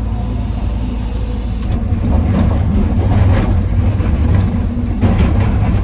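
Excavator's diesel engine running steadily under load, with two stretches of clattering, about two seconds in and again about five seconds in, as andesite rock is loaded into a dump truck bed.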